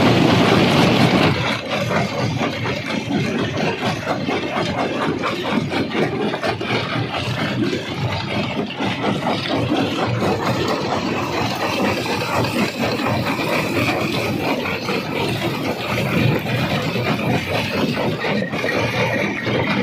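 Rock crusher running with stone in it: a continuous dense clatter and grinding over a machine drone, loudest in the first second or so.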